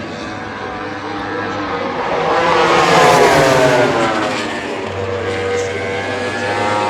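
MotoGP racing motorcycle engine at high revs going past, loudest about three seconds in, its note dropping in pitch as it passes. A steadier engine note follows near the end.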